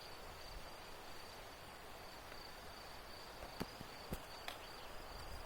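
An insect trilling steadily at one high pitch, with a few faint clicks about three and a half to four and a half seconds in.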